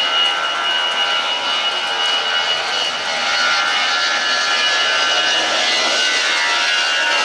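Jet aircraft engines running on a wet runway: a steady rushing noise with a high whine, a little louder from about halfway in.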